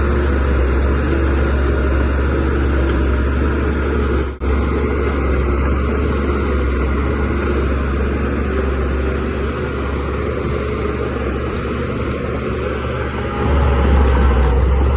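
Shantui DH17C3Pro bulldozer's diesel engine running steadily under load with a deep drone, working soil. The sound cuts out for an instant about four seconds in, and the engine gets louder near the end.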